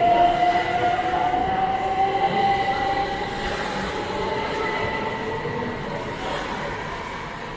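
Electric train running, with a motor whine whose pitch slowly rises while the overall sound fades.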